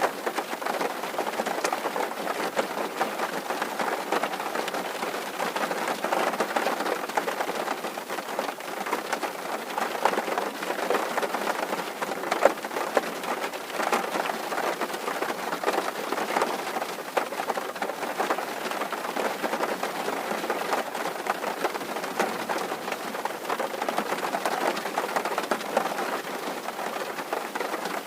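Steady rain drumming on a tin roof: a dense, even patter of many small drop impacts on the metal sheeting.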